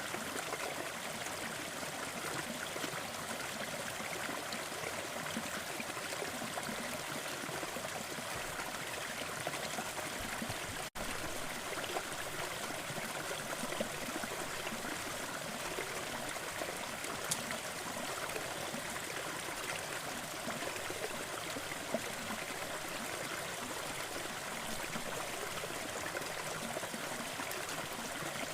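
Small forest waterfall splashing and running steadily, with a momentary dropout about eleven seconds in.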